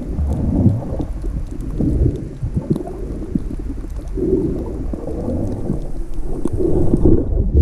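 Muffled underwater rumble and sloshing of water heard through a snorkeler's camera, with faint scattered crackling clicks; the higher hiss and clicks stop about seven seconds in.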